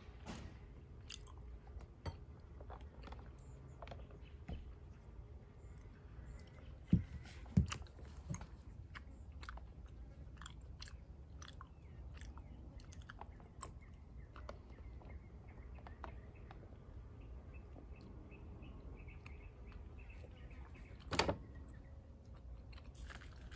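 Close-up chewing of chewy tapioca boba pearls, with many small wet mouth clicks. There are two louder knocks about seven seconds in and another near the end.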